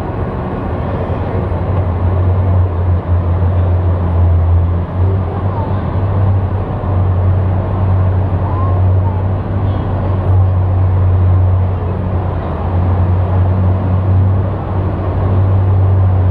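Tractor engine running with a steady low drone that wavers a little in strength, over a haze of crowd noise.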